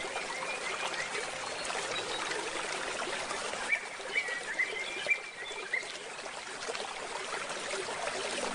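Forest stream running steadily, with small birds chirping in short runs near the start and again midway.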